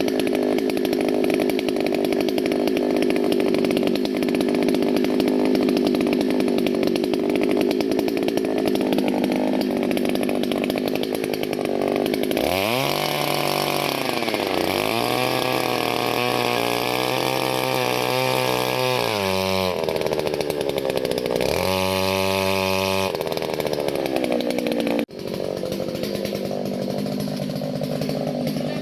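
Powered earth auger's small two-stroke engine boring a planting pit. It runs steadily at high revs for the first dozen seconds, then its pitch drops and swings down and up again and again as the auger bites into the ground, with a brief sharp dip near the end.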